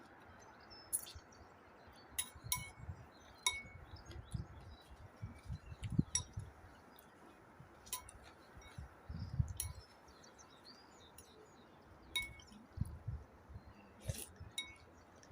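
Scattered light clinks, a dozen or so, each ringing briefly at the same few pitches, with soft low bumps of handling in between.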